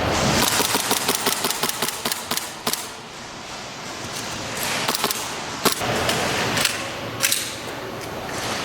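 Airsoft gun firing a rapid full-auto burst of pops lasting about two and a half seconds, followed by a few single shots.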